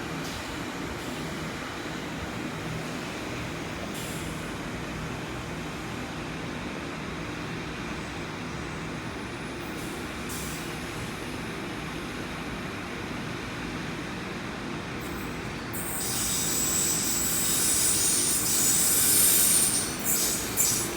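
A train on the tracks: a steady low rumble that swells from about three-quarters of the way in as the train comes close, with high-pitched squealing from the wheels on the rails.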